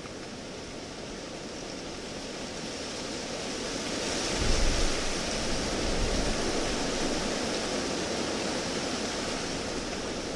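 Traffic on a nearby highway: a vehicle passing, its tyre rush swelling to a peak about halfway through, with a brief low rumble at its loudest, then slowly fading.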